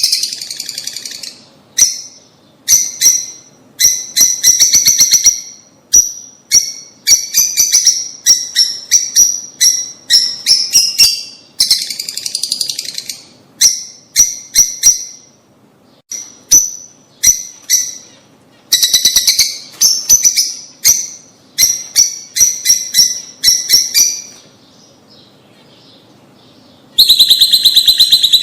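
Lovebirds chirping in rapid, high-pitched bursts of chatter, one burst after another, with a lull of a couple of seconds near the end before a loud burst starts again.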